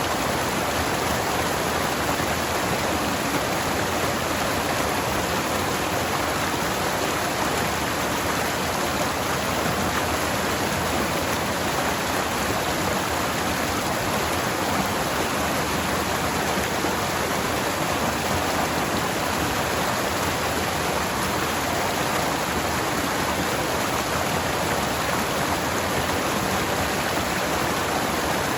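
Forest stream running over rocks: a steady, unbroken rush of water.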